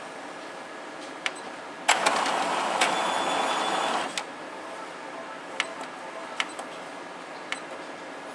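A small mechanism running for about two seconds with a harsh rushing noise, starting and stopping sharply, amid scattered single clicks: the abnormal noise from a generic LB319B replacement part.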